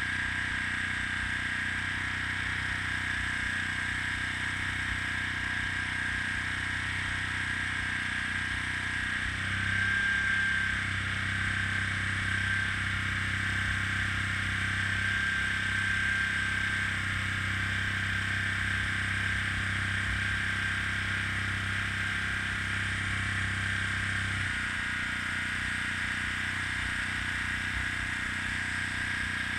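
Steady hiss of compressed air with a thin high whistle, from an airbrush in use. A low motor hum joins about nine seconds in and stops about fifteen seconds later.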